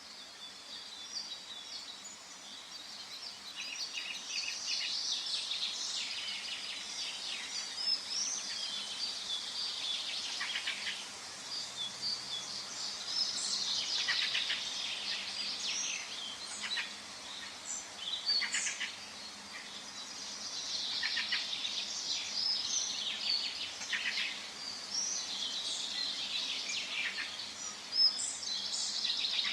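Forest ambience with several songbirds calling and singing at once, high chirps and trills with frequent quick downward-sweeping notes, over a faint steady background hiss.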